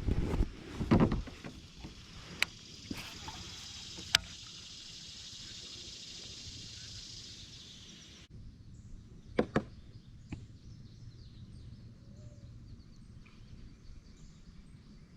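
A cluster of knocks, then a few single sharp clicks, over a steady high hiss that cuts off suddenly about eight seconds in.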